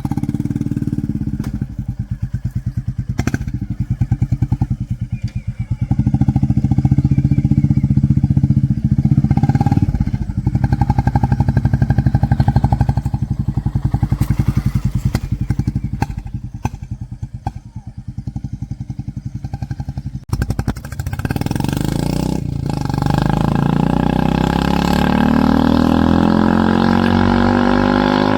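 Royal Enfield Classic 350 Reborn's single-cylinder engine running through an aftermarket HK Indori big-hole silencer with a deep, pulsing thump, rising and falling with the throttle. About two-thirds of the way in the bike moves off and the pitch climbs steadily as it gains speed, with wind hiss over the engine.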